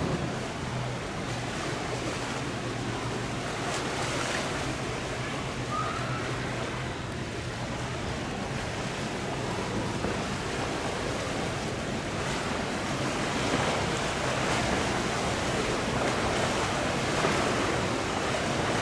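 Steady wash of wind and surf, with a passing boat's engine as a low drone that fades out over the first few seconds.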